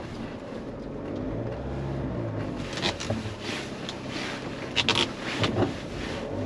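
Car engine running at low speed, heard from inside the cabin, as the car is worked forward and back around a tight hairpin bend on a steep road. A few sharp clicks and crackles come in the middle.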